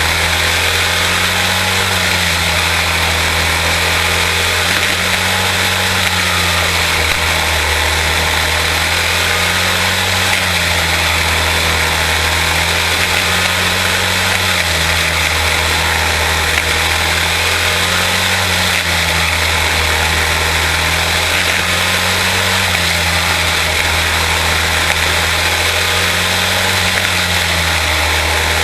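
Quarter-midget race cars' Briggs & Stratton Animal single-cylinder engines running around the track, their pitch rising and falling in a regular cycle about every four seconds.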